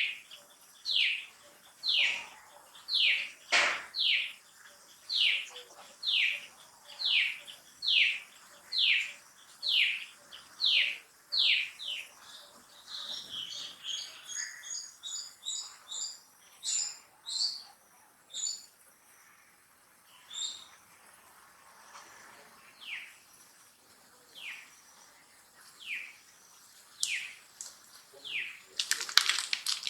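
Baby macaque crying: high, short falling cries repeated about once a second, breaking into quicker, higher squeaks around the middle, then coming more sparsely, with a louder flurry near the end.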